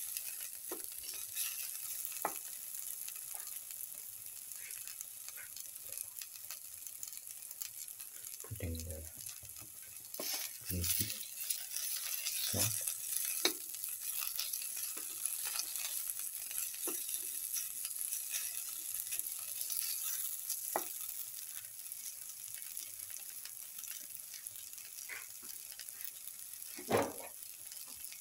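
Sliced onions, green chillies and garlic sizzling in hot oil in a pan, stirred with a plastic spatula that scrapes and clicks against the pan. A few louder knocks come through, the loudest near the end.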